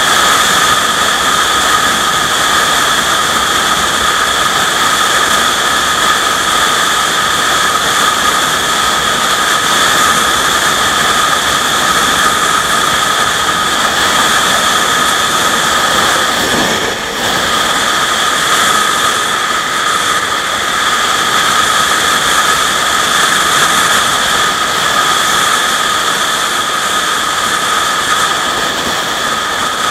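Steady, loud rushing noise with a continuous high-pitched whine over it, dipping briefly about seventeen seconds in.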